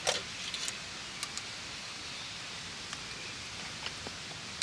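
Wood campfire burning: a steady hiss with a few sharp crackles, mostly in the first second and a half.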